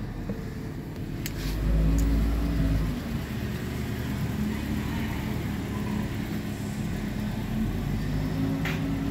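2015 Kia Cerato's 1.8-litre four-cylinder petrol engine idling steadily. A louder low rumble swells for about a second near two seconds in, and a few sharp clicks sound.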